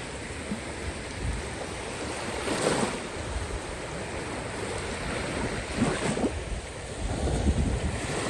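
Caspian Sea waves breaking and washing on the shore, with a few louder wave surges about every three seconds, and low rumbling wind on the microphone.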